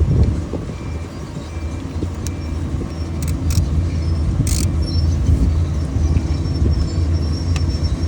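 An engine running steadily at idle, a low, even hum, with a few short metallic clicks from hand tools about halfway through.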